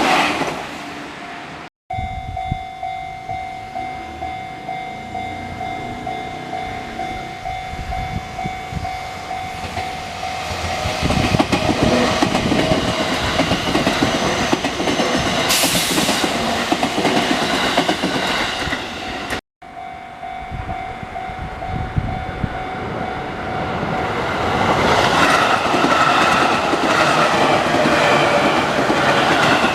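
A Japanese level-crossing alarm rings in a steady repeating chime, and then a train passes with its wheels clattering over the rail joints. There is a brief sharp hiss about halfway through. The crossing alarm starts again, and another train comes through near the end.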